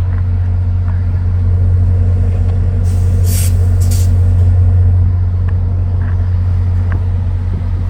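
Diesel-electric locomotive idling with a loud, steady low drone, and a short hiss of air about three seconds in.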